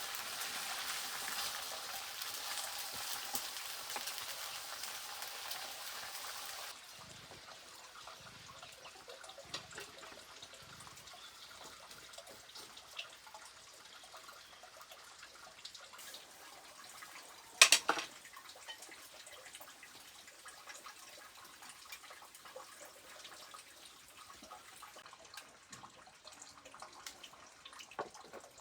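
Fish frying in a pan: a steady hissing sizzle that cuts off suddenly several seconds in. Then quieter, with faint small ticks and one sharp knock about eighteen seconds in.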